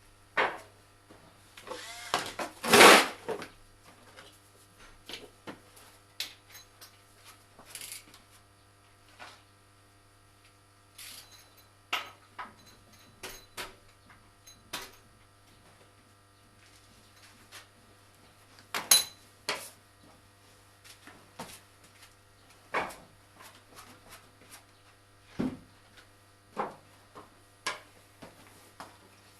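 Scattered metallic clinks and knocks of hand tools, a 17 mm socket on a wrench working the oil drain bolt, with the loudest clatter about three seconds in.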